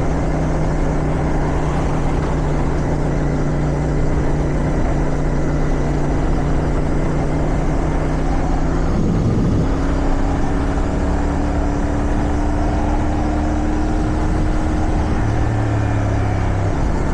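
CFMoto 450SR parallel-twin motorcycle engine running at a steady road speed, with wind noise over the microphone. About nine seconds in the engine note changes pitch, then holds steady again.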